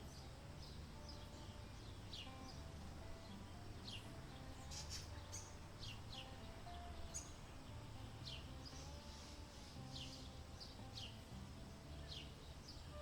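Faint bird chirps: short, falling calls repeating about once a second over a low outdoor rumble. Soft held tones step gently up and down in pitch underneath.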